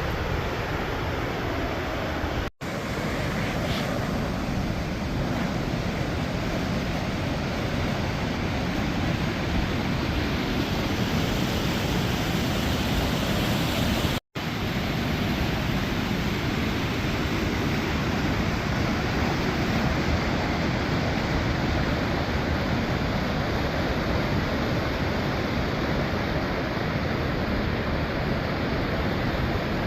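Rushing water of a waterfall: a steady, loud rush, broken twice by a split-second drop to silence, a few seconds in and about halfway through.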